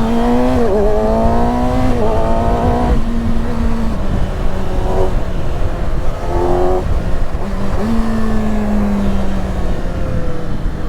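Kawasaki ZX-6R's 636 cc inline-four engine running at mid revs under light, varying throttle, over heavy wind rumble on the helmet microphone. After a couple of short blips of throttle, the engine note comes back about 8 seconds in and falls slowly as the bike eases off.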